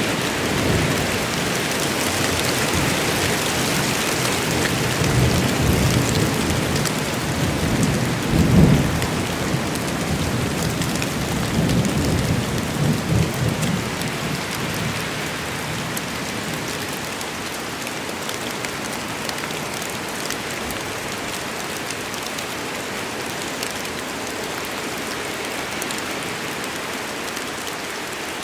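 Steady rain falling in a thunderstorm, with thunder rumbling low through the first half, loudest about a third of the way in, then dying away to leave only the rain.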